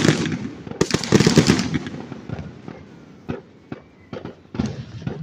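Fireworks display exploding: a dense cluster of loud bangs about a second in that dies away, then scattered single sharp cracks.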